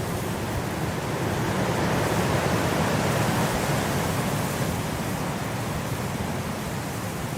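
Blizzard wind blowing as a steady rushing noise, swelling a little in the middle and then easing.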